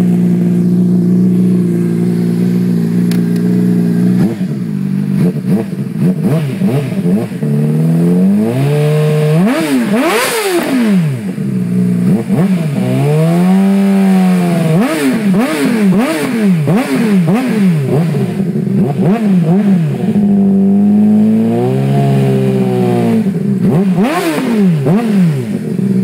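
2007 Honda CBR600RR inline-four running through a Two Brothers aftermarket exhaust: idling, then revved again and again from about four seconds in, with a run of quick throttle blips and two longer held revs, settling back to idle near the end.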